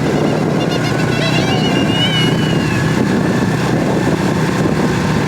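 ATV engine running steadily while being ridden, with a few brief high squeaky tones about a second in.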